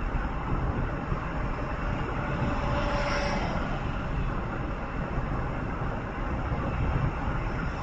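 Steady rumble of a moving road vehicle: tyre, wind and engine noise, with a faint brief tone about three seconds in.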